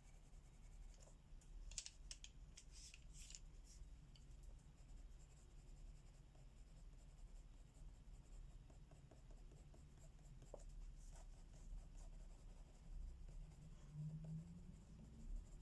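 Faint scratching of colouring strokes on paper, with a quick run of strokes about two to three and a half seconds in and scattered lighter strokes after.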